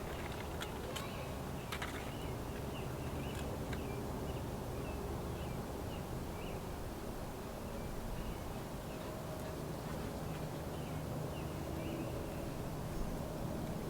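Outdoor ambience: a small bird chirping faintly in quick, irregular series over a steady low background rumble, with a few sharp clicks in the first two seconds.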